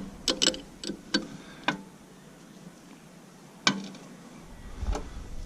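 Sharp metallic clicks and taps from a wrench working on JIC hydraulic line fittings. There are about six in the first two seconds, irregularly spaced, then a louder single click near the middle and a fainter one near the end.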